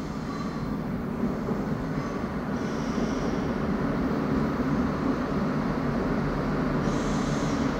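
Irish Rail 29000 class diesel multiple unit running slowly into a station platform, a steady low engine and wheel rumble growing louder as it approaches. Brief high-pitched squeals come about three seconds in and again near the end.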